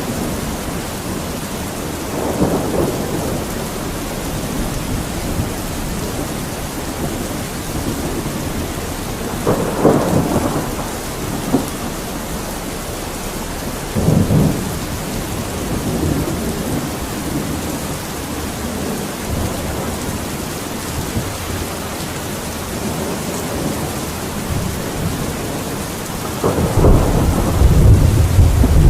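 Steady rain, an even hiss throughout, with several low rumbles swelling up and fading over a second or two each; the longest and loudest rumble comes near the end.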